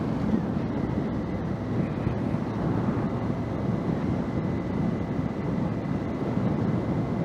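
2019 Honda Africa Twin's parallel-twin engine running steadily while riding at city speed, with wind rushing over the microphone and a faint steady high whine.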